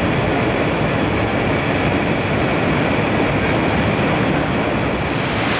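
Steady, even noise of an aircraft in flight, its engines and the rushing air blending into one constant sound.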